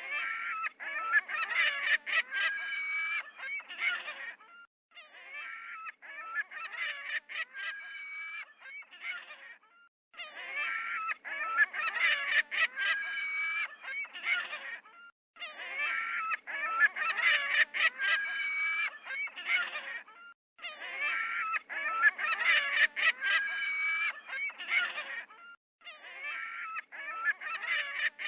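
A flock of geese honking, in bouts of about four seconds separated by short pauses, the pattern repeating about every five seconds.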